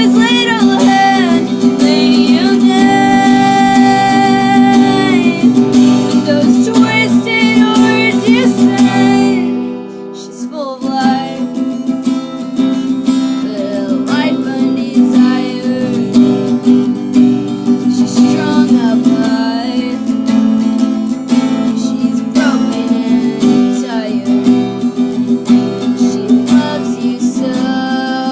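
A woman singing to a strummed acoustic guitar. The music drops away briefly about ten seconds in, then carries on.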